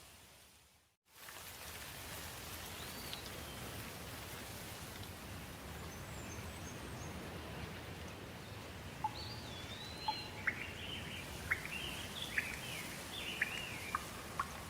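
Steady rain falling, which fades to a brief silence about a second in and comes back. From about nine seconds in, birds call over it with a run of short, sharp chirps.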